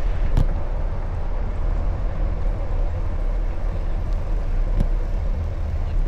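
Steady low rumble of road and wind noise from a bicycle ride, with two brief sharp clicks, one near the start and one near the end.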